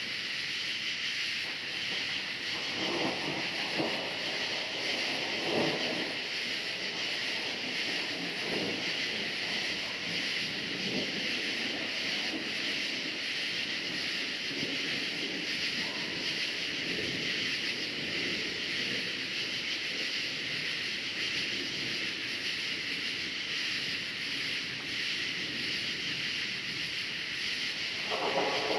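A dense, steady chorus of crickets, a continuous high shimmer, with faint low rumbles coming and going underneath.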